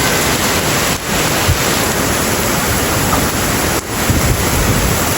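Heavy downpour of wind-driven rain, a dense steady hiss, with gusts of wind buffeting the microphone.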